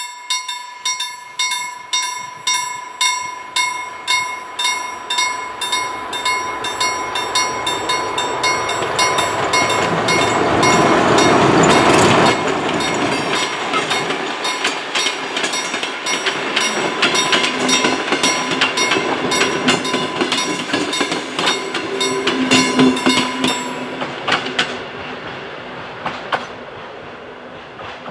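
Level crossing warning bell ringing about twice a second while a museum passenger train passes. The train is loudest as the head of it goes by about ten seconds in, then the old carriages click over the rail joints. The bell stops and the train fades near the end.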